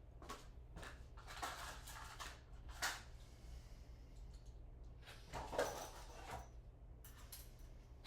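Quiet handling noises over a low steady hum: scattered light clicks, scrapes and rustles in two short clusters, the sharpest click just before the 3-second mark.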